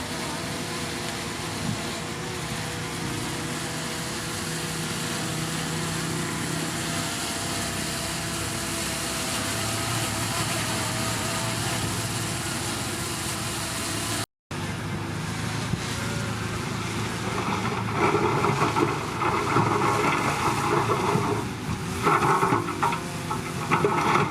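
Heavy diesel earthmoving machinery running steadily, with a brief dropout about two-thirds through and louder intermittent sounds in the last few seconds.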